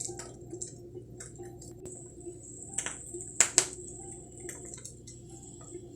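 Scattered small clicks and scratchy taps, with a sharper pair of clicks about three and a half seconds in, over a faint steady hum.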